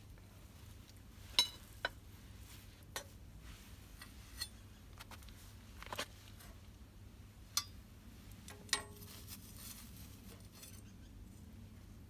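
Campfire wood crackling, with sharp pops at irregular intervals of one to two seconds and a brief soft hiss near the end.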